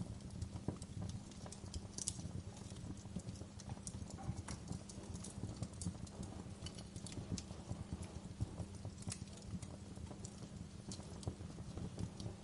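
Fire crackling, with many irregular sharp pops and snaps over a steady low rumble of flames.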